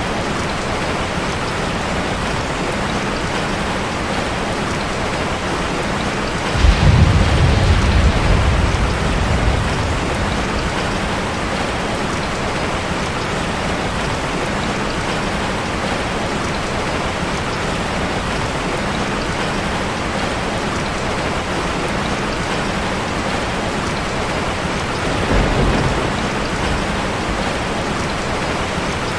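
Steady rain drumming on a metal roof. About seven seconds in, a sudden low rumble rises over it and dies away over a few seconds, and a shorter, weaker rumble comes near the end.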